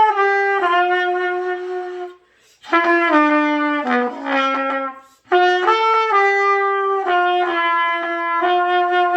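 Solo trumpet playing a slow melody of long held notes in three phrases, with short breaks for breath between them.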